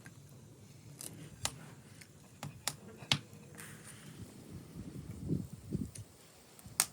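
Scattered sharp clicks and taps of tableware at a meal, about six single knocks with the sharpest near the end, and a short low murmur about five seconds in.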